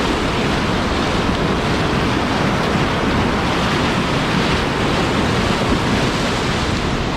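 Steady rush of whitewater from a river rapid, an even, unbroken roar of moving water.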